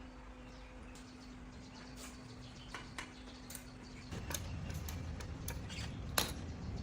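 Scattered sharp clicks and taps over a steady low hum, with faint bird chirps in the background; a low rumble comes in about four seconds in.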